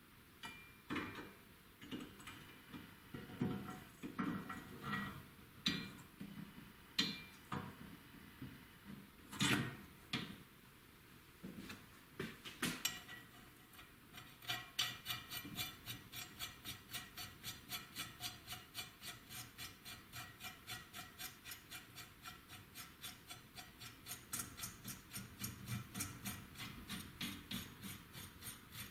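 Metal motorcycle steering-head parts being handled and fitted by hand, with irregular knocks and clinks for the first half. After that comes a steady run of small clicks, about three a second.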